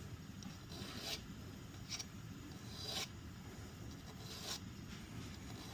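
Hand file scraping across the steel hammer spur of a 1911 pistol in slow strokes about a second apart, rounding off the bobbed hammer.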